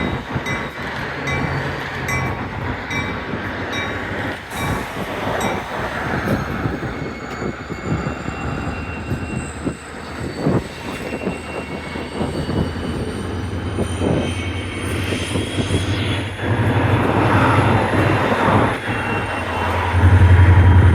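Freight train rolling through a rail yard: steel wheels squeal in long, slowly wavering high tones over repeated clanks and knocks. A low engine drone grows louder near the end.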